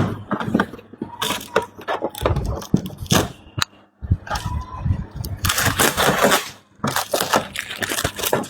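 Plastic clicks, cracks and knocks of an LCD TV being taken apart by hand, with a longer scraping stretch about five and a half seconds in.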